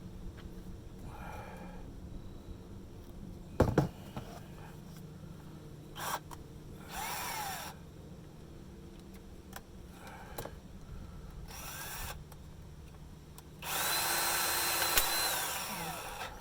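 Power drill triggered in short spins, once about halfway through and again a few seconds later, then run longer near the end, its motor speeding up, holding and winding down. A sharp knock comes about four seconds in.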